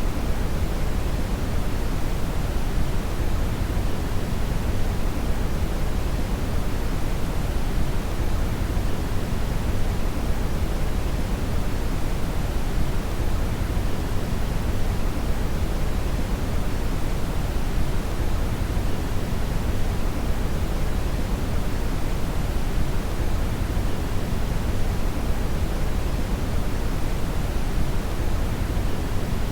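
Steady brown noise, a continuous deep hiss with most of its energy in the bass, unchanging throughout.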